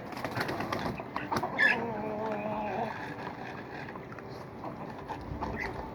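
Farmyard poultry calling, with one wavering call about a second long near two seconds in, amid scattered taps and clicks.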